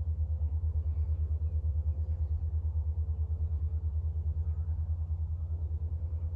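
An engine running steadily at low revs: a low rumble with an even, fast pulse that does not change.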